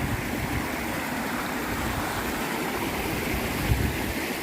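River water rushing steadily, with a brief low thump about three and a half seconds in.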